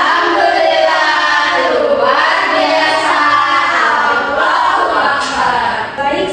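A group of voices singing together in unison, without a break for the whole stretch.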